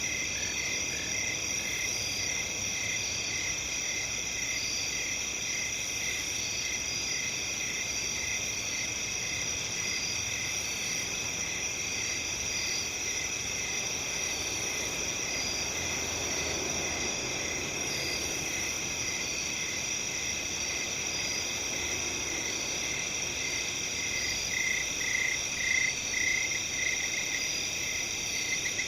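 Field crickets chirping in a steady, dense chorus, with one nearer chirp repeating about twice a second that grows louder for a few seconds near the end.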